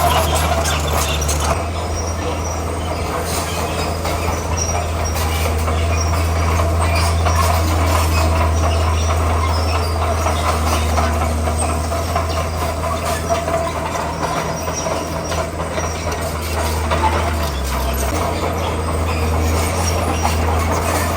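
Komatsu bulldozer at work: its diesel engine runs steadily under the clanking and squealing of its steel tracks. The engine note shifts briefly about three-quarters of the way through.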